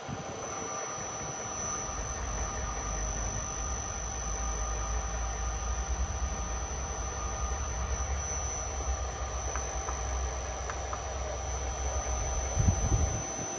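Sunye variable-frequency drive running on test, with a steady high-pitched whine. A low hum, most likely from the motor it drives, comes in about a second and a half in and stops near the end with a few knocks.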